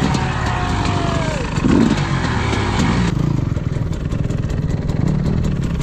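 Dirt bike engine running, its pitch falling over the first second and a half, with a brief louder surge about two seconds in, then running steadily.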